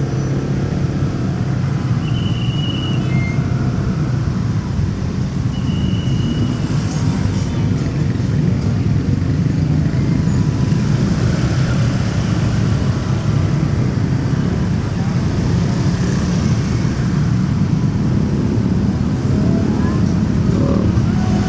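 Motorcycle engine running steadily under the rider amid city traffic noise, with two brief high tones about two and six seconds in.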